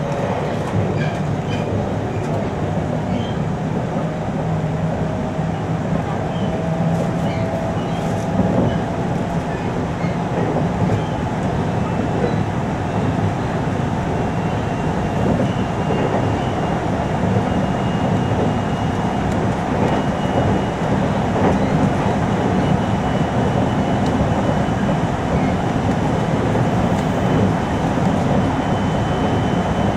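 Steady running noise of a 521 series electric train heard from inside a motor car at speed: wheels rumbling on the rails with a faint whine and an occasional light knock.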